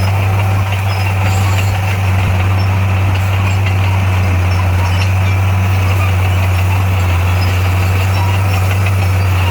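Diesel engine of heavy construction machinery running at a steady speed, a deep, constant drone.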